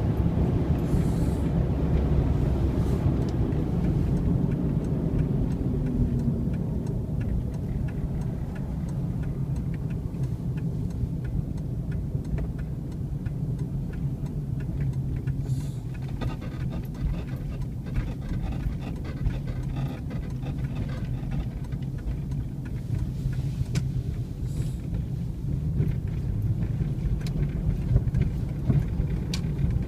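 2002 Jeep Grand Cherokee running, a steady low engine and road rumble.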